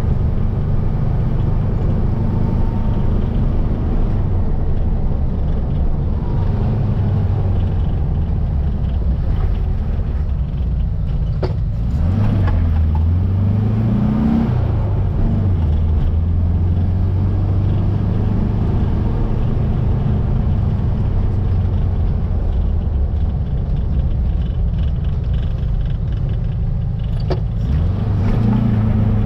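Baja Bug's 1700cc air-cooled flat-four engine pulling the car along at a steady pace. Its revs rise and fall in the middle and climb again near the end.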